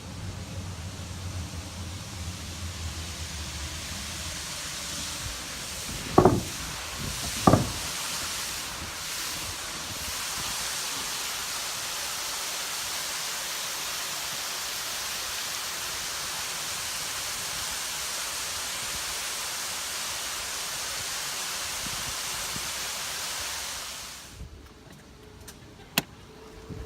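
Steady rush of falling water from a waterfall, with two sharp knocks about six and seven and a half seconds in. The rushing cuts off abruptly near the end.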